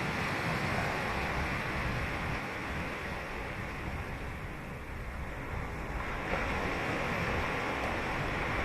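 Ocean surf washing onto a sandy beach, a steady rush that eases a few seconds in and swells again as the next wave breaks.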